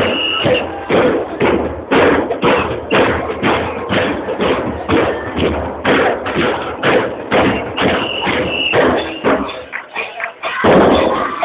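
Carnival percussion playing a steady beat of about two strokes a second, with voices mixed in. The drumming drops off briefly near the end, then comes back louder.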